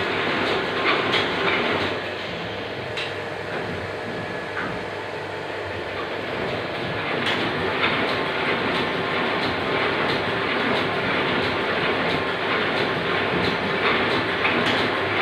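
Steady mechanical clatter with occasional sharp clicks, a little quieter for a few seconds in the first half.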